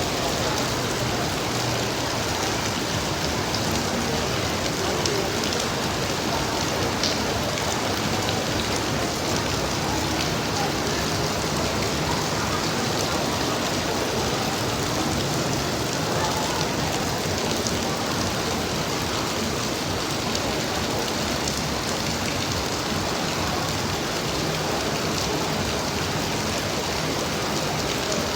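Rain falling steadily, an even hiss of drops on hard surfaces that holds at the same level throughout.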